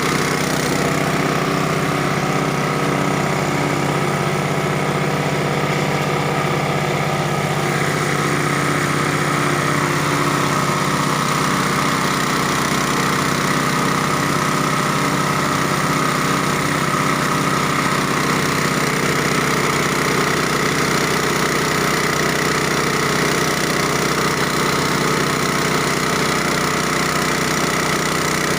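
Multipurpose chopping machine for grinding cassava running with a steady engine-like drone; its pitch pattern shifts slightly about eight to eleven seconds in.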